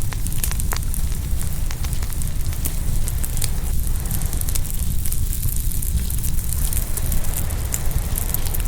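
Open wood fire crackling and popping in many small, irregular snaps, over a steady low rumble of ocean waves washing on the shore.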